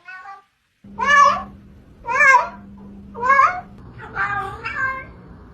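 A cat meowing over and over, about one meow a second, each call rising and falling in pitch. A low steady hum runs behind the first few meows.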